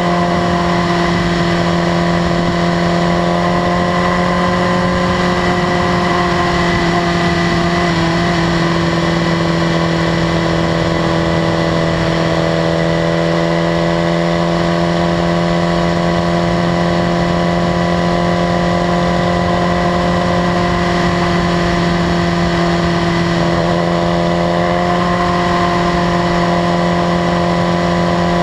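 2015 BMW S1000RR's inline-four engine running at a steady cruise, a constant drone that holds nearly one pitch, shifting slightly twice.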